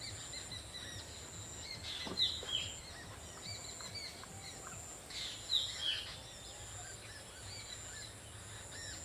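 Birds chirping: short, quick calls that sweep down in pitch, coming in small clusters about two seconds and again about five and a half seconds in, over a faint steady hiss. A single light tap is heard about two seconds in.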